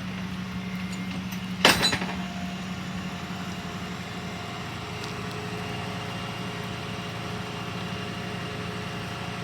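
Tow truck's engine running steadily at a low speed, with a single sharp bang about two seconds in.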